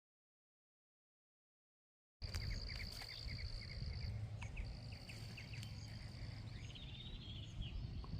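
Dead silence for about two seconds, then outdoor ambience: a steady high-pitched insect trill that breaks off once, repeated short bird chirps, and a brief bird song near the end, all over a low rumble.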